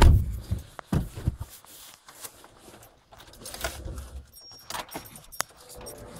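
A bunch of car keys jangling and clicking, with a few scattered knocks and one sharp click near the end.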